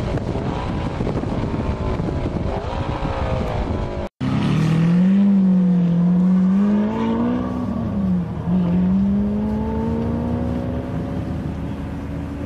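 Wind rush and engine note from onboard a car at speed. After a sudden cut about four seconds in comes a Lamborghini Aventador's V12, revved at the drag-strip start line, its pitch swinging up and down and then climbing slowly.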